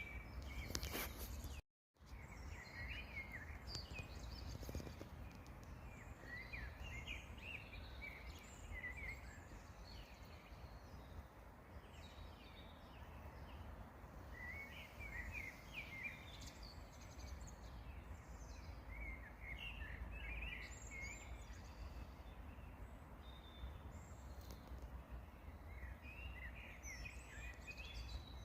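Songbirds singing faintly in short chirping phrases every few seconds over a steady low rumble. The sound cuts out completely for a moment near the start.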